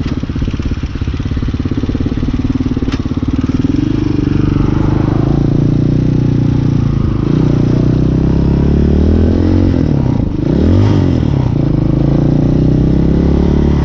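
Hawk 250 dual-sport motorcycle's single-cylinder engine running under way. The revs rise and fall in the second half, with a brief drop around ten seconds in.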